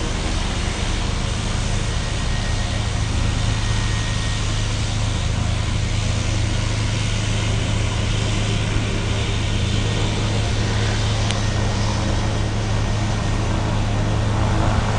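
Steady engine drone with a constant low hum and a wide even rush of noise, unchanging throughout; a single brief click about eleven seconds in.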